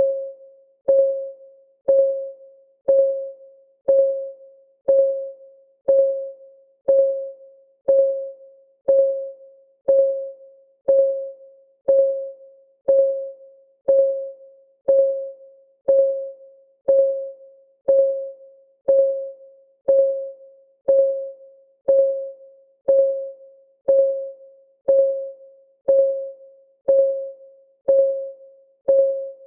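Countdown timer's clock-ticking sound, one tick per second: each tick a sharp click with a short ringing tone that dies away quickly.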